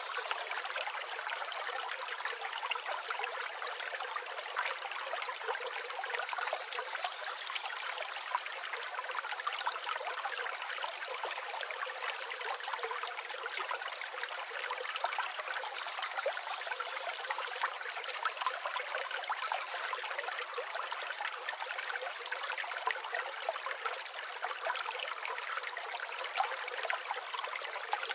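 River water flowing steadily over stones, an even rushing and trickling, with a faint high bird chirp twice.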